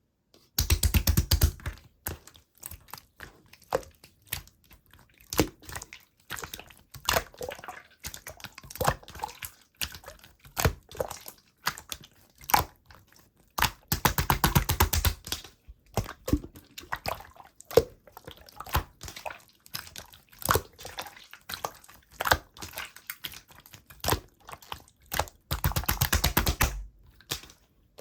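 Close-up clicking and tapping sounds, irregular single clicks, with three longer bursts of rapid clicks: one near the start, one midway, one near the end.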